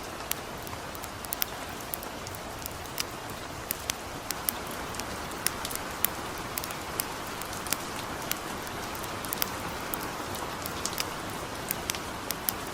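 Steady light rain hissing, with frequent sharp crackles and pops from a campfire, a few each second.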